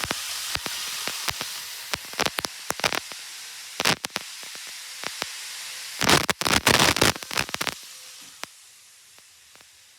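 Steady hiss overlaid with irregular sharp clicks and crackles, thickest in a loud burst of crackling about six seconds in, then thinning out to a fainter hiss.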